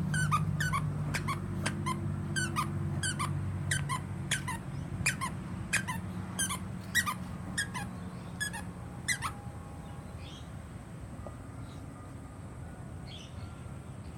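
Squeaker in a plush toy bird squeezed over and over: about fifteen short, high squeaks in quick, uneven succession that stop about nine seconds in.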